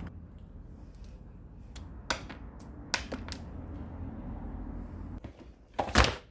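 A few sharp clicks and knocks, with a louder clatter near the end, over a low steady hum.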